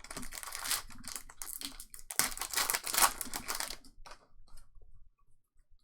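Trading card packs and cards being handled: crinkling and rustling for about four seconds, then a few faint clicks as it dies away.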